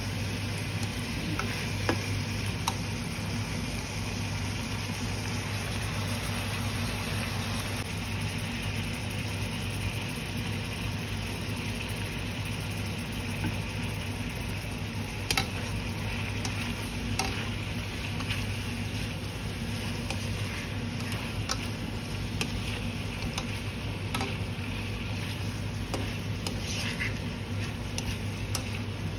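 Chicken wings and mushrooms frying in a nonstick pan: a steady sizzle with scattered clicks and scrapes of a slotted spatula turning the pieces, over a low steady hum.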